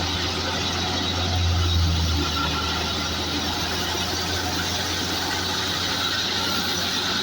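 Fiat 640 tractor's diesel engine running steadily under load, driving a wheat thresher, with the thresher's continuous mechanical din over the engine's low hum; it swells slightly about a second in.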